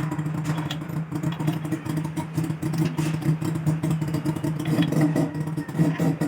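An engine running steadily, with light clattering and clicks over it.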